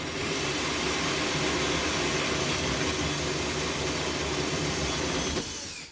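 Electric power tool motor running steadily for about five seconds, then switched off and winding down near the end.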